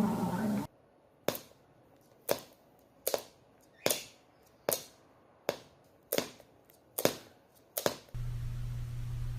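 A run of about nine sharp taps or knocks, roughly one a second, over near silence. A steady low hum comes in near the end.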